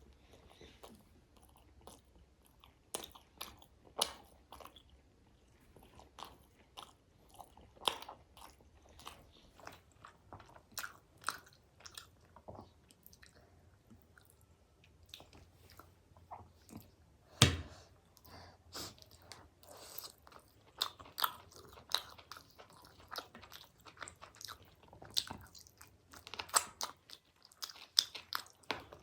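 Close-miked eating: a person biting and chewing chicken karahi and fries, with irregular crunches and clicks, and one sharp knock about halfway through.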